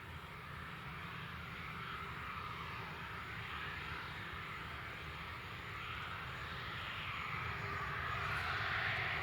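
Boeing 737-400 freighter's CFM56-3 turbofan engines running at takeoff power, a jet roar with a low rumble that grows steadily louder as the aircraft draws nearer.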